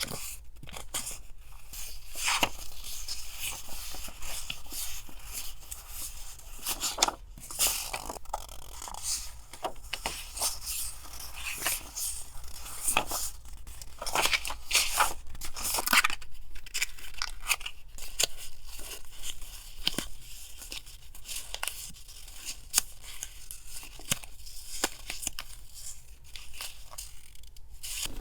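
Paper craft items handled close to the microphone: crisp rustling and crinkling of paper and packaging, with many small sharp taps and scrapes.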